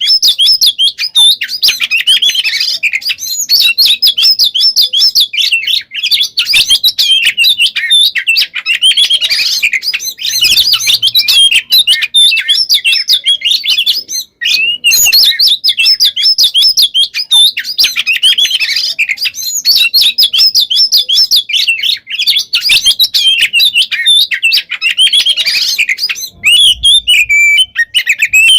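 Oriental magpie-robin (kacer) in full song: a dense, nonstop stream of rapid high warbles and trills packed with mimicked fill-in phrases, broken once by a short pause about fourteen seconds in.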